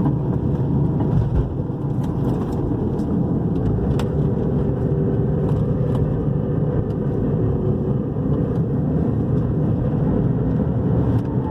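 Cabin road noise of a 2010 Toyota RAV4 driving round a roundabout, with a faint steady hum through the middle of the turn. The hum is the noise of a worn rear wheel bearing, the right one, which the mechanic hears when that bearing is loaded in the turn.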